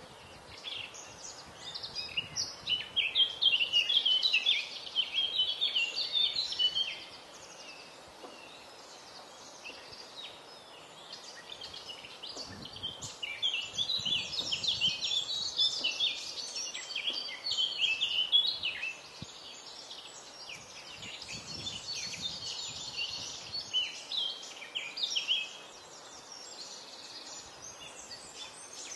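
Songbirds singing: long, rapid, twittering phrases, loudest in three stretches, over a faint steady outdoor background.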